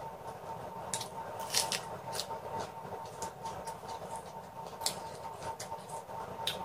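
Close-miked chewing of raw pak choy: crisp, irregular crunches and wet mouth sounds, the sharpest crunches coming about a second in, around two seconds and near five seconds. A faint steady hum sits underneath.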